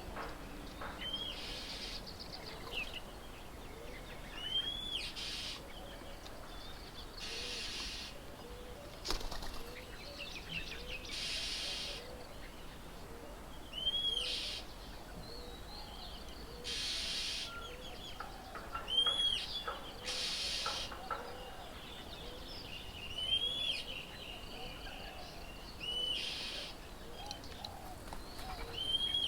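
Birds around a feeding table: one bird repeats a short, arched whistled call every few seconds over a lower note repeating about once a second, while brief rushing bursts, like wings flapping, come and go several times.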